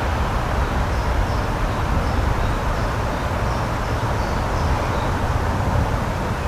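Steady rushing outdoor nature ambience, strongest in the low end, with a few faint, short, high chirps from small birds scattered through it.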